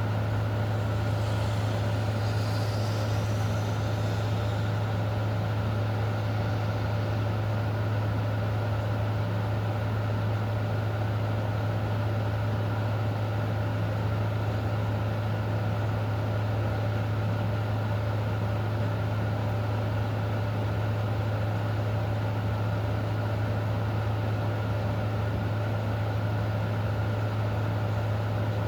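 Steady, unchanging low mechanical hum with a faint constant higher tone above it.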